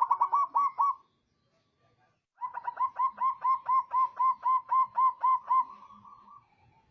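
Zebra dove (perkutut) cooing. A quick run of about six short coos comes first, then after a pause of about a second and a half a longer run of about fourteen evenly spaced coos, about three a second, that trails off.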